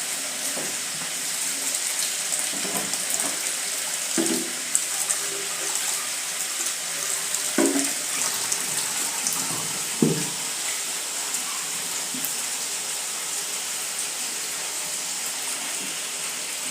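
Tap water running steadily, with chicken sizzling in hot oil underneath and a few light knocks.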